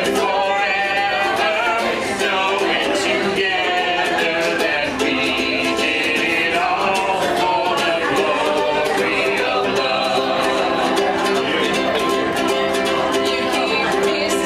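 Live music: voices singing over a strummed acoustic string instrument, steady throughout.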